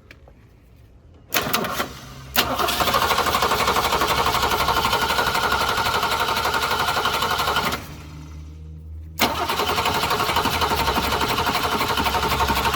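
1966 Ford Mustang's 200 cubic-inch straight six being cranked by its starter in two long bursts of about five seconds each, with a short pause between, and never catching. This is a no-start with spark and fuel pump confirmed good, which the owner suspects is the old Holley carburetor not working correctly.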